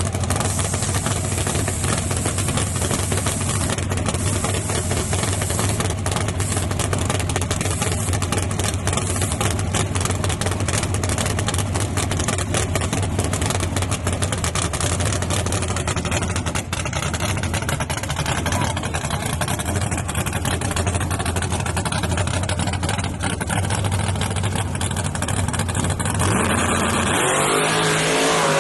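A car engine running steadily with a low, even drone under a lot of rough noise; near the end the engine note changes abruptly.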